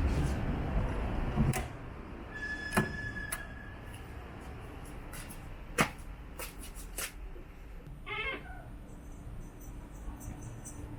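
A pet cat gives one short meow about eight seconds in, amid sharp taps and handling noise.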